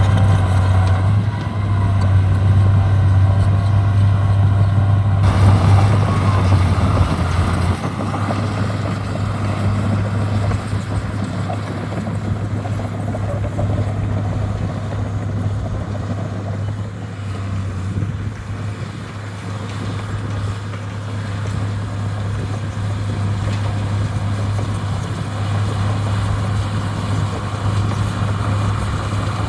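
Heavy diesel machinery running steadily with a deep, even engine drone, which eases off a little about eight seconds in.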